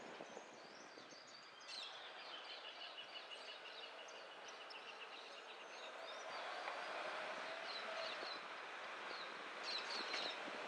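Birds chirping and singing over faint outdoor background noise, with a rapid trill of evenly repeated notes starting about two seconds in.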